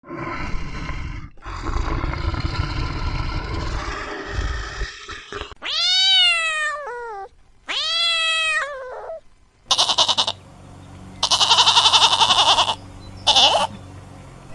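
Several animal calls in a row. First a rough, noisy growl-like sound lasting a few seconds, then two long meow-like calls that rise and then fall in pitch, then three buzzy, wavering bleat-like calls, the middle one the longest.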